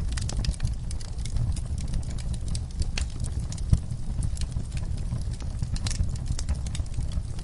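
Wood fire burning in a fireplace: a steady low rumble of flames with frequent irregular crackles and pops, one louder pop near the middle.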